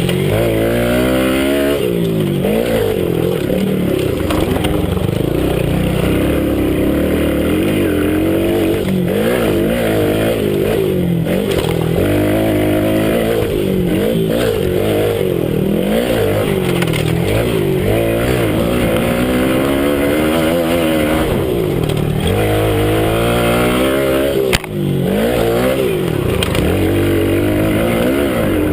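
Minibike engine heard onboard, revving up and falling away over and over as it is ridden round a motocross track. A single sharp knock cuts through once near the end.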